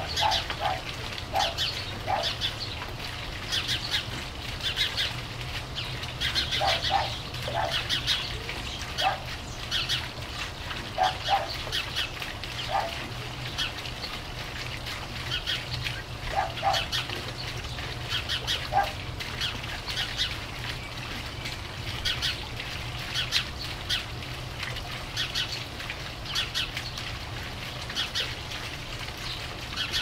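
Small birds chirping repeatedly in high, quick notes, with short lower-pitched calls in twos and threes now and then, over a steady low hum.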